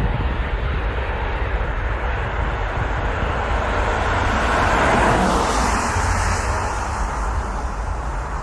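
Jet engines of a large airliner passing by, a broad roar that swells to its loudest about five seconds in and then eases off.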